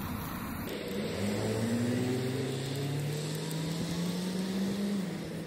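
Car engine accelerating slowly: a steady hum that starts about a second in and rises gradually in pitch for about four seconds, then holds level.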